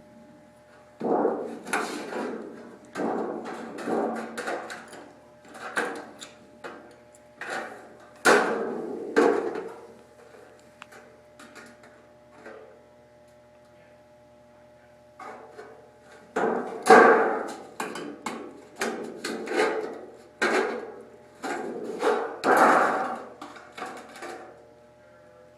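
Sheet-metal duct pieces being bent with hand folding tongs, clanking and rattling in irregular bursts, with a quieter gap of a few seconds in the middle.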